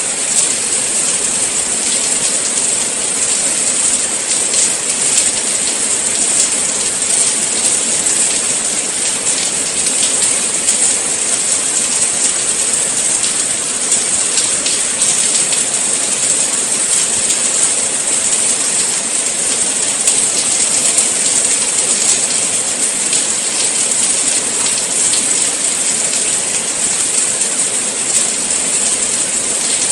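Steady rain falling, an even hiss with light patter of drops.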